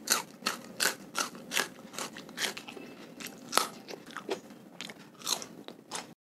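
Close-miked ASMR eating sounds: teeth biting into a raw red chili pepper, then a run of sharp, wet crunches as it is chewed, about two or three a second at first and then irregular. The crunching stops abruptly near the end.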